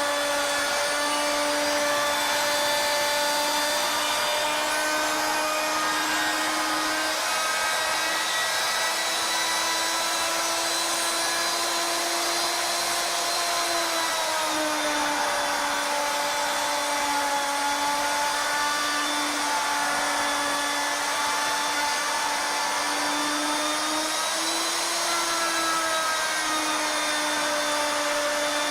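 CNC router spindle running a 2-inch barley twist cutter as it mills a spiral into a wooden spindle: a steady motor whine with overtones, its pitch dipping a little about halfway through and shifting again later as the load on the cutter changes.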